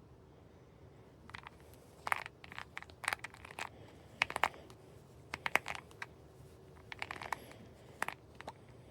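Short scraping and rubbing strokes of a tool or abrasive on the metal frets of a Martin D-16 acoustic guitar during fret dressing. The strokes come in irregular bursts of a few quick strokes each, with brief pauses between them.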